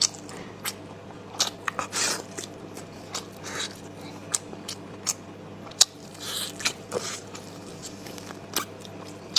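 Close-miked chewing and biting of charred roasted meat: irregular wet mouth clicks and smacks, with a few sharper bites.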